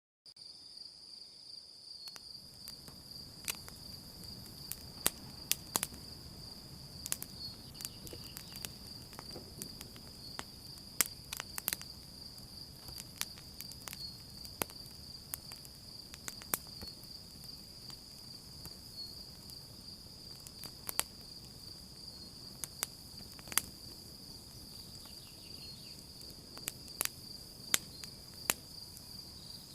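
Campfire crackling at night, with sharp irregular pops every second or so over a low rush of burning wood, and crickets trilling steadily in the background. The sound fades in at the start.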